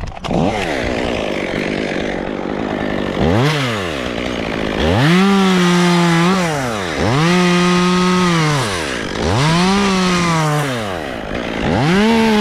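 Chainsaw running: it idles for about three seconds, then is revved to full throttle four times, dropping back between each, while cutting wood.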